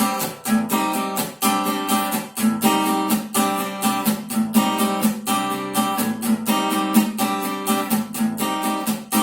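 Acoustic guitar strummed in a steady rhythm, playing the song's chords between sung verses with no voice.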